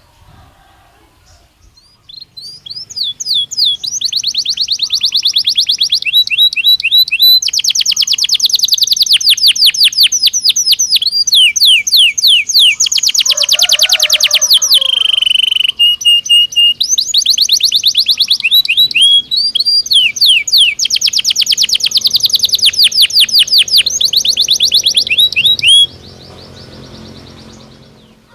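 Belgian canary singing a long song of fast trills: phrases of rapidly repeated high notes that change speed and pitch from one phrase to the next, with one lower, deeper phrase midway. The song starts about two seconds in and stops a couple of seconds before the end.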